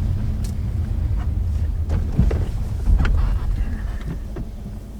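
Car driving, a steady low road rumble with a few light knocks, dying down toward the end.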